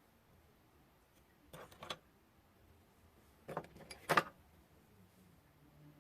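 A few brief scrapes and taps of hands and tools working a sheet of polymer clay on a work surface, mending a hole in it. They come in two short clusters, about one and a half seconds in and again from about three and a half seconds, with the loudest tap a little past four seconds in.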